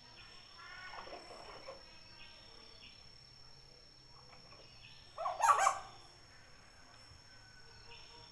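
Hill myna calling: soft chattering notes about a second in, then one loud, harsh call a little past the middle.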